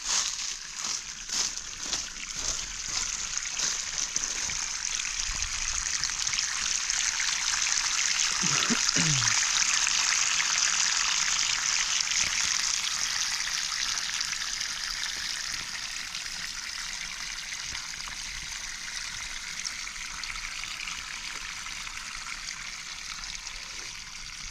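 Running water trickling steadily, swelling to its loudest about a third of the way in and then easing off.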